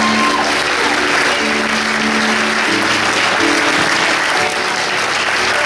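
Audience applauding over soft instrumental background music with held chords.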